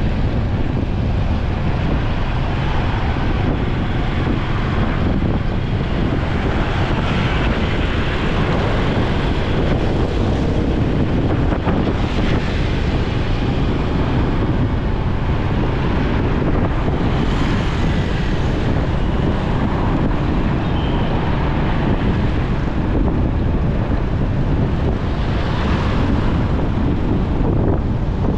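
Steady wind rush on the microphone of a moving motorcycle, with the motorcycle's engine and the road and traffic noise around it underneath.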